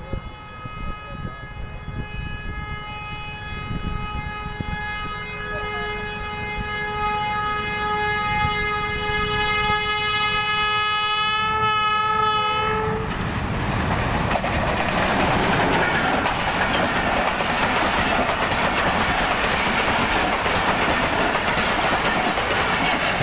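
Diesel-electric locomotive horn sounding one long steady blast as the train approaches at speed; it cuts off after about 13 seconds. The locomotive and passenger coaches then rush past close by, a loud continuous rumble with wheel clatter on the rails.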